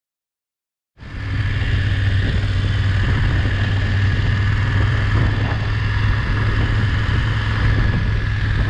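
Steady rumble of a vehicle driving, with engine and road noise, starting suddenly about a second in.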